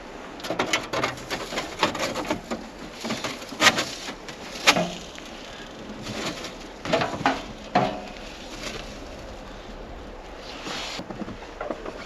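Irregular knocks and clatters of handling something hard, with the sharpest knocks about four and five seconds in and again near eight seconds, then quieter toward the end.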